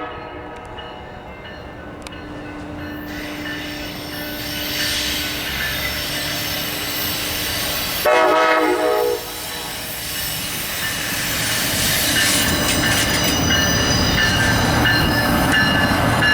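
Amtrak passenger train approaching and passing, its locomotive horn giving one short blast about eight seconds in. The rumble of the train grows louder, with a thin high wheel squeal in the last few seconds.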